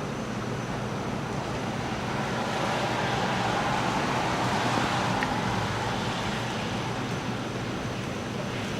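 Steady rain with a vehicle driving past on the wet road, its tyre hiss swelling from about two seconds in to a peak near the middle and fading away.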